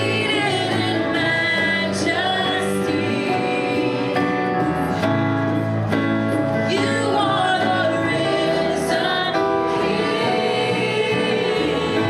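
Gospel singing with instrumental accompaniment, steady throughout.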